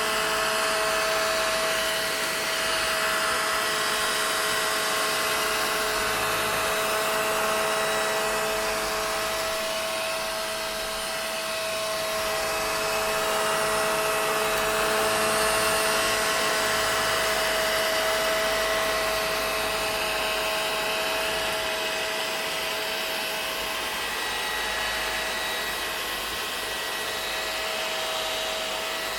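Vacuum cleaner motor running continuously, a steady rushing hum with a constant whine in it; the loudness swells and eases slightly but never breaks.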